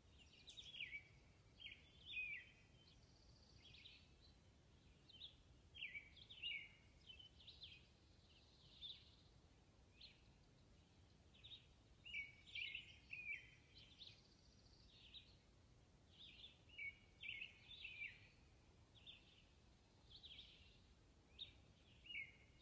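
Faint songbirds chirping and singing in short, scattered phrases, several calls a few seconds apart, against a quiet outdoor background.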